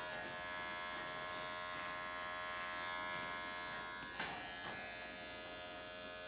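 Electric hair clippers buzzing steadily while shaving an undercut, with a brief click about four seconds in and a smaller one just after.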